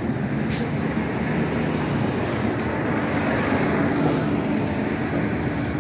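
Steady, fairly loud vehicle noise, a low rumble and hiss with a faint hum, and a brief click about half a second in.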